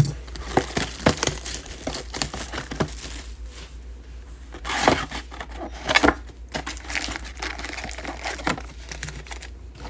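Plastic wrapping and foil card packs crinkling and tearing as a sealed box of 2019-20 Select basketball cards is opened and handled, with louder rustling about five and six seconds in.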